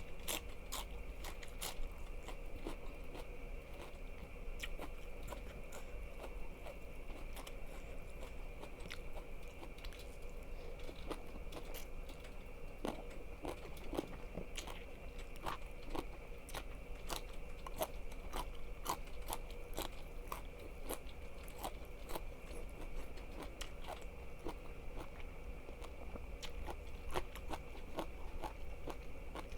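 Close-miked chewing and biting of crunchy food, with many sharp crisp crunches throughout, over a faint steady hum.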